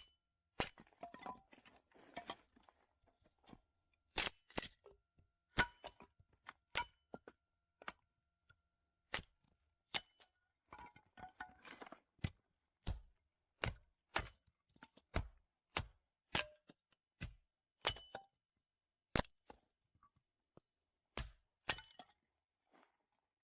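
Firewood being chopped into small stove-sized pieces: a long run of sharp cracking strikes of a blade into wood, about one or two a second at an uneven pace, some with a short ringing after the hit.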